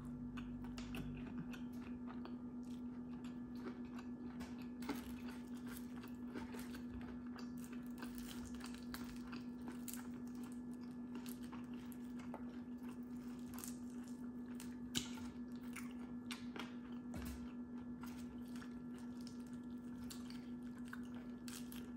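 A person chewing and biting crunchy fried food close to the microphone: a run of small, crisp crunches and wet chewing, with one sharper crunch about fifteen seconds in. A steady low hum runs underneath.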